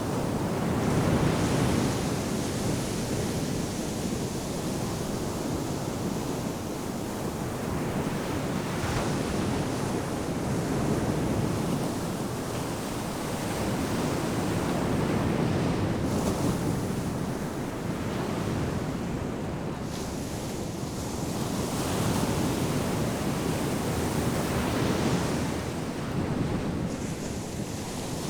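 Ocean surf breaking and washing on a sandy beach, a continuous rushing that swells and eases as each wave comes in, with some wind noise on the microphone.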